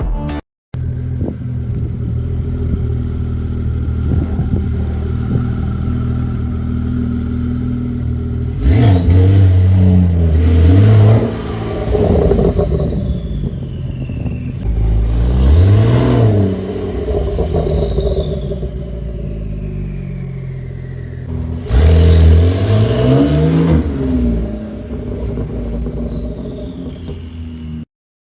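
Lamborghini engine idling steadily, then revved hard three times, about a third of the way in, near the middle and about three quarters through. Each rev rises sharply in pitch and falls back to idle.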